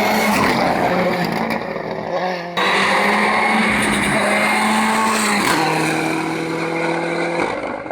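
Hillclimb race cars' engines running hard at high revs, each held at a nearly steady pitch. An abrupt switch to a different car comes a couple of seconds in, and the engine note changes again later.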